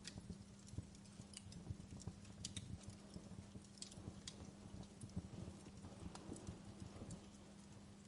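Wood fire crackling in a fireplace: irregular soft pops and snaps over a steady low hum.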